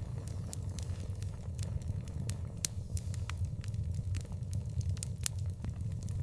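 Outdoor wood fire crackling, with irregular sharp pops and snaps several times a second over a steady low rumble.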